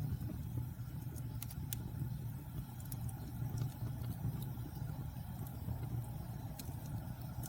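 Wood fire burning in a fireplace: a steady low roar of flames with scattered sharp crackles and pops.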